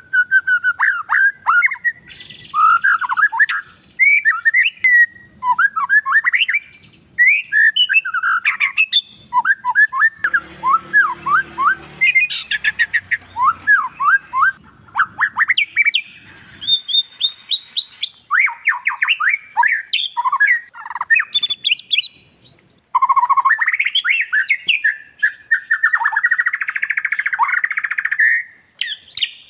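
Oriental magpie-robin singing a fast, varied song of sweeping whistles and chirps in short phrases, with a rapid trill about halfway and harsher, scratchy phrases near the end.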